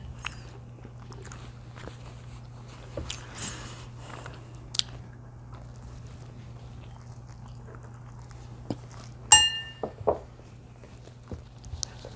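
Eating sounds from pizza and cheese sticks: scattered soft bites, mouth clicks and chewing over a steady low hum. About nine seconds in comes a short, sharp ringing tone, the loudest sound, followed by a few fainter blips.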